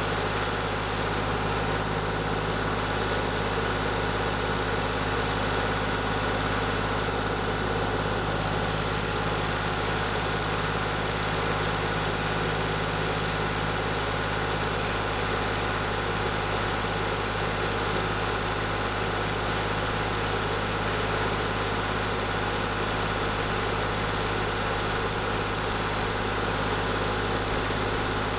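An engine running steadily at idle: a constant low hum with even overtones that does not change in speed or level.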